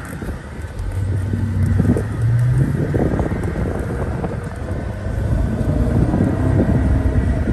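Supercharged 5.4-litre V8 of a 2003 Mercedes-Benz CL55 AMG accelerating, heard from inside the cabin: about a second in the engine note rises in pitch and grows louder, then carries on pulling over road and wind noise.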